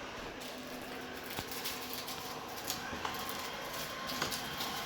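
Samsung Powerbot robot vacuum running: a steady whir of its motor and brushes, with scattered light clicks.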